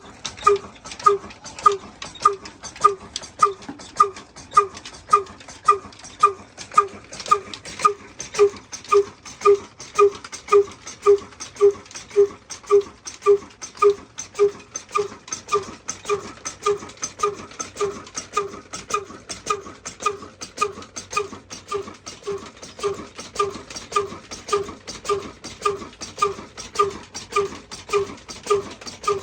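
Diesel engine running at a slow, even beat, about two sharp exhaust pulses a second.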